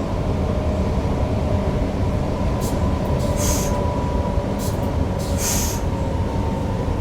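Newag Impuls EN63 electric multiple unit heard from the driver's cab: a steady rumble of wheels on rail with a faint steady whine from the electric drive. Several short hisses come in the middle.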